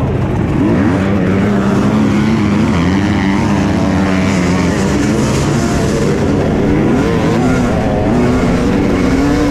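Two-stroke enduro dirt bike engine, a Husqvarna TE 250i, revving with its pitch rising and falling over and over.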